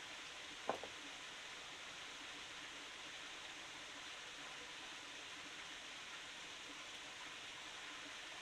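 Steady rushing of running stream water, with one short sharp knock just under a second in.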